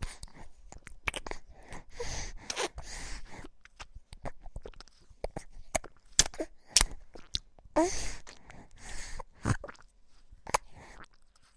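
A baby making mouth sounds: a run of wet clicks and smacks mixed with breathy puffs and a few very short vocal sounds.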